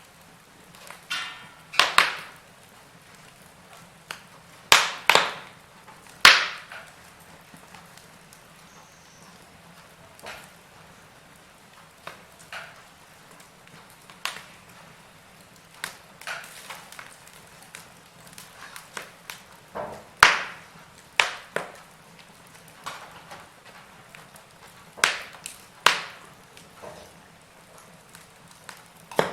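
Wood fire crackling in a fireplace: irregular sharp pops and snaps over a soft steady hiss, with the loudest cracks about two, five, six, twenty and twenty-six seconds in.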